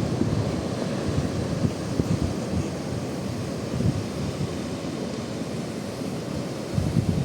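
Wind buffeting the microphone in irregular gusts, a rumbling noise that surges now and then.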